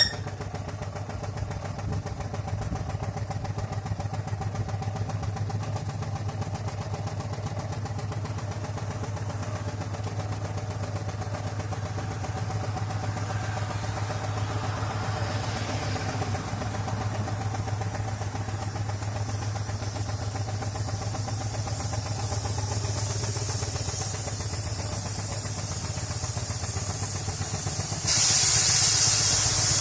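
4-inch scale Burrell steam traction engine running steadily, with a fine regular beat. A loud steam hiss starts suddenly near the end.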